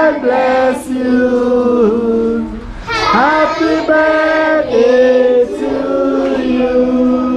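A group of people, with children's voices among them, singing together in long held notes. There is a brief break between phrases about three seconds in.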